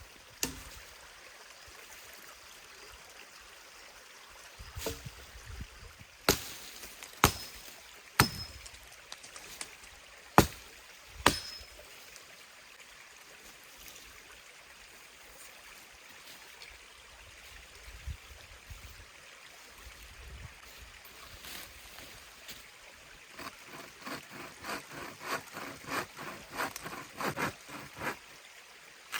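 A stream running steadily. About six sharp knocks cut through it over the first eleven seconds, some with a short high ring. Near the end comes a quick run of softer strokes, about two a second.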